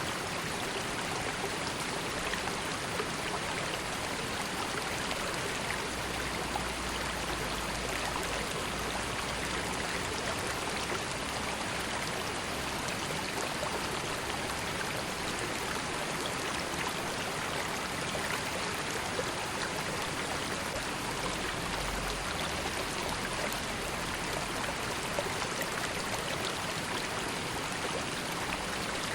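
A river flowing steadily: an even rush of water with fine trickling and splashing.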